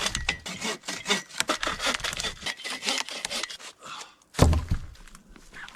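Hand saw cutting through wood in quick, rasping strokes, with a heavy thud about four and a half seconds in.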